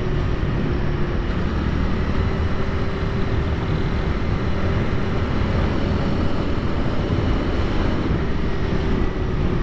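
Honda Rebel 300's single-cylinder engine running at a steady pace on the move, mixed with wind rumble on the microphone.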